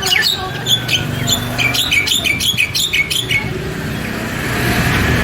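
Songbird singing a fast series of sharp, repeated chirps for about three and a half seconds. Near the end a rising rush of noise swells up beneath it.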